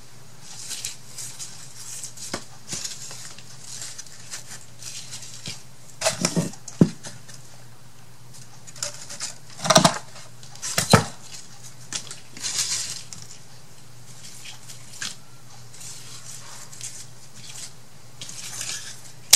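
Craft supplies handled on a tabletop while painting: soft scratchy brushing and rustling, with a few sharp clicks and knocks of small objects such as paint bottles being picked up and set down, loudest about a third and halfway through. A faint steady low hum runs underneath.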